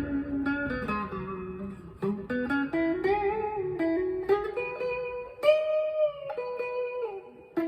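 Harley Benton SC-DLX electric guitar with its pickups coil-split, played clean through a Boss Katana MKII amp with a little reverb, aiming for a Stratocaster-like tone. Picked single-note lead lines with string bends that rise and fall in pitch, and a chord struck and left ringing about five and a half seconds in.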